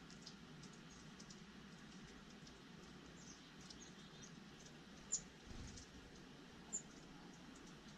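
Small birds chirping faintly: scattered short, high chirps, with two sharper ones about five and seven seconds in, and a brief low rumble between them.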